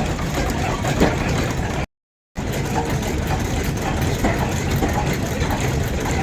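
An engine running steadily at idle with a low, even rumble. The sound cuts out completely for about half a second roughly two seconds in.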